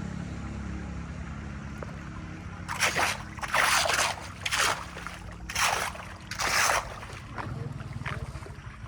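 Five loud bursts of splashing water about a second apart, over a steady low motor hum.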